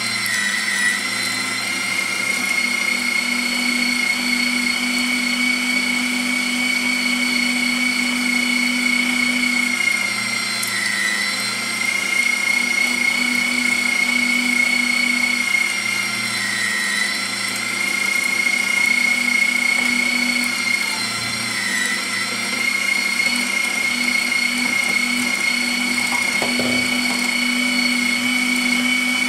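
Bosch MFW3640A electric meat mincer running continuously with a steady high motor whine that dips briefly in pitch four times.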